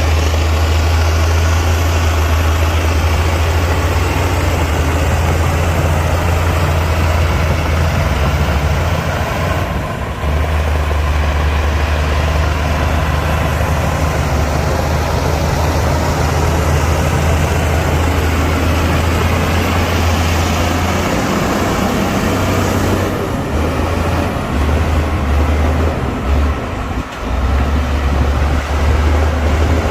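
Heavy diesel engine of earthmoving machinery running steadily with a deep hum. It dips briefly about ten seconds in and falters several times in the last third.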